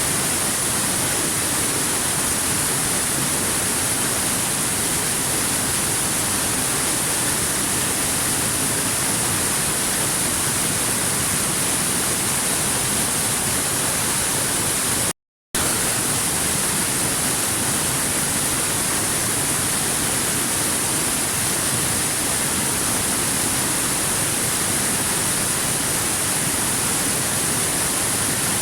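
Steady, unbroken rushing of a waterfall, an even wash of falling water with no single splashes standing out. The sound cuts out completely for a split second about halfway through, then resumes unchanged.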